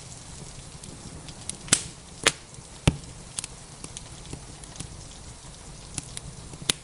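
Wood fire crackling with scattered sharp pops, three loud ones close together near the middle, over a steady hiss of rain.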